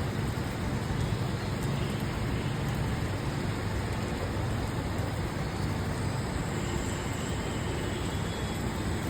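Rain falling steadily: a continuous hiss with a low rumble underneath.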